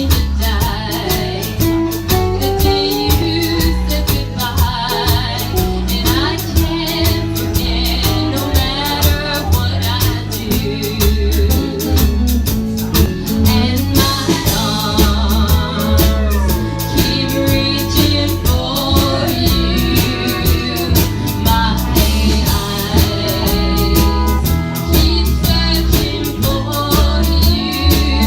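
A band playing a song with a woman singing, over guitar, bass and a steady drum beat.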